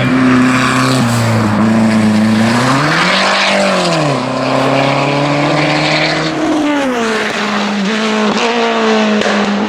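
Race car engine at full throttle on a hillclimb course, its pitch climbing and then falling sharply as it changes gear, with one clear upshift about four seconds in and more shifts near seven seconds.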